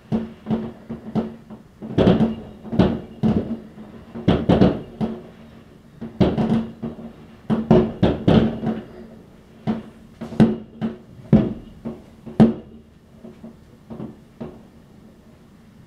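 New Year's Eve fireworks exploding: a dense, irregular string of sharp bangs and cracks, some loud and close, others fainter, often several within a second, over a steady low hum.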